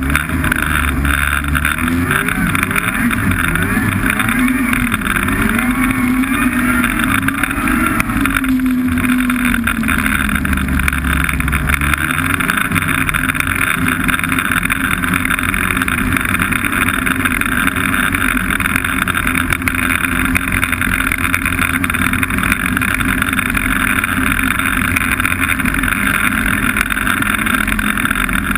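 Snowmobile engine running under way, its pitch rising and falling over the first dozen seconds as the throttle changes, then holding steady.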